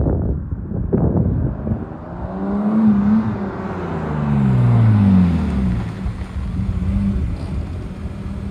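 1993 BMW 325is's 2.5-litre straight-six through a blast-pipe exhaust, blipped sharply twice and then revving hard, its pitch climbing and then sliding down as the car accelerates.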